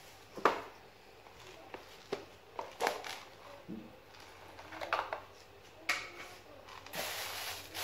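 Scattered light clicks and knocks of kitchen items being handled while whole spices are gathered for a chicken curry, with a short rushing noise about seven seconds in.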